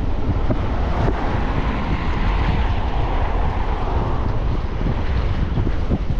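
Wind buffeting the microphone during a moving e-bike ride, a steady low rumble. A smoother rushing sound swells and fades in the first few seconds.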